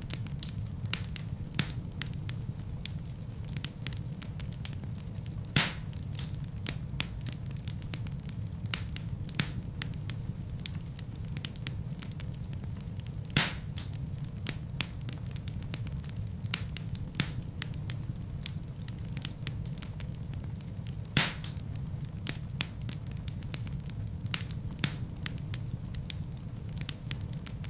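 Wood fire burning in a fireplace: a steady low rumble of flames under constant small crackles, with three louder pops spread evenly through.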